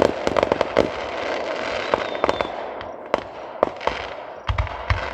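Aerial fireworks crackling with rapid pops and a hissing shower, then a deep boom about four and a half seconds in.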